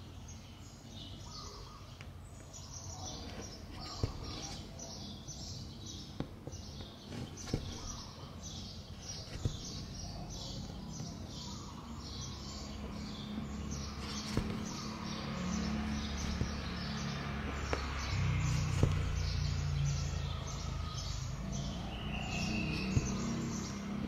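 A small bird chirping over and over, about twice a second, over background noise, with a few sharp clicks. A low hum comes up in the second half and gets louder.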